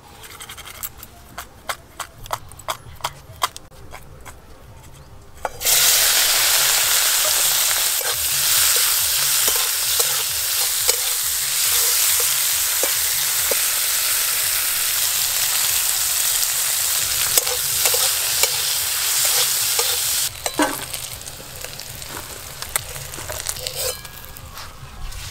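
Small prawns coated in turmeric and salt frying in hot mustard oil in a karahi: a loud, even sizzle that starts suddenly about five and a half seconds in and stops about 20 s in, with a spatula stirring through it. Before it, light clicks as the prawns are mixed in a steel bowl; after it, a quieter stretch of spatula taps as the fried prawns are lifted out.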